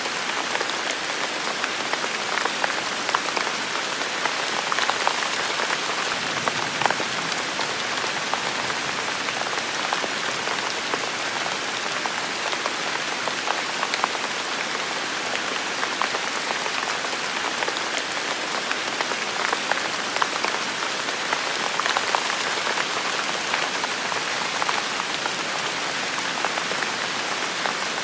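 Steady heavy rainfall, a dense even hiss with many separate drops pattering and clicking close by.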